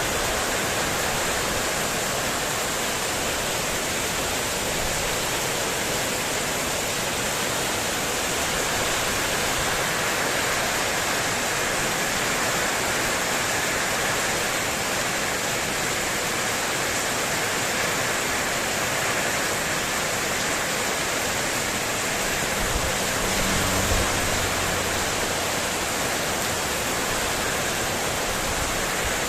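Heavy rain falling steadily on a house's corrugated metal roofing sheets, an unbroken dense wash of noise. About three-quarters of the way through there is a brief low sound.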